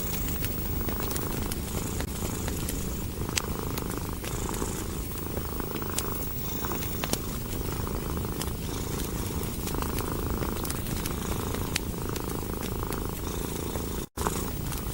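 Domestic cat purring steadily, swelling and easing in a slow regular rhythm with each breath, over the small pops and crackles of a wood fire. The sound cuts out for an instant near the end.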